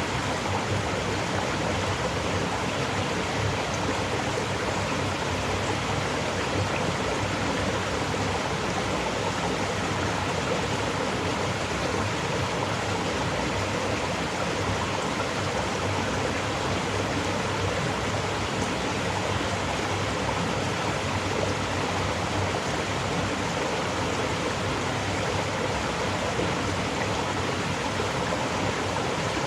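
Fast-flowing stream rushing steadily, a constant wash of water noise.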